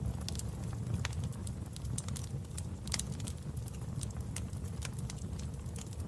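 Wood fire in a fireplace crackling: sharp, irregular pops and snaps over a steady low rumble of burning logs.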